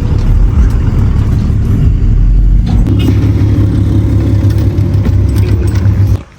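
Pickup truck running, a loud, steady low engine rumble that cuts off suddenly near the end.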